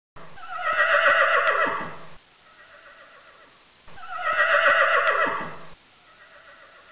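Horse whinnying twice, each whinny about two seconds long and followed by a softer, quieter trailing call.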